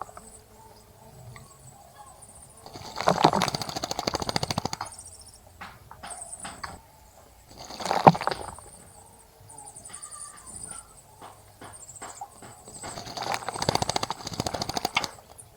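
Small birds bathing in a bird bath: three bouts of splashing and wing-fluttering in the water, the middle one short. Faint high bird chirps come between them.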